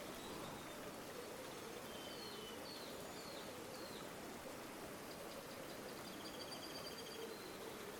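River water flowing steadily, with small birds calling over it: a few short chirps about two to four seconds in, then a rapid trill from about five to seven seconds.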